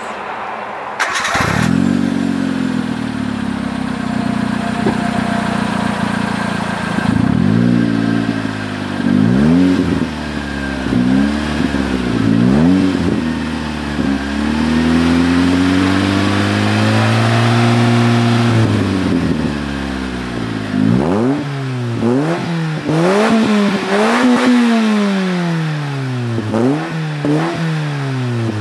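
Subaru Pleo kei car's engine breathing through a home-welded all-stainless muffler: it starts about a second in and idles, then is revved in blips, held at higher revs for several seconds, and given a quick run of short revs near the end. The exhaust note is tuned quiet but open, not boomy.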